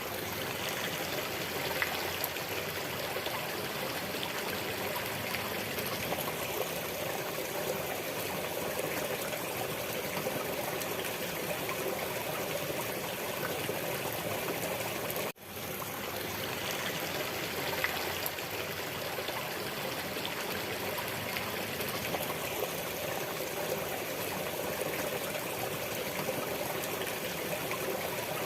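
Steady running water, trickling like a stream, with a brief drop-out about halfway through.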